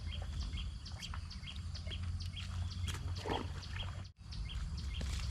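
Birds chirping outdoors, short high calls repeating two or three times a second, over a steady low rumble.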